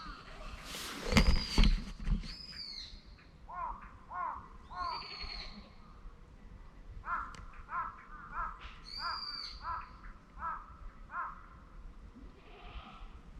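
Wild birds calling: short, arched notes repeated in a run of about seven, with higher squeaky calls among them. A few loud knocks about a second in.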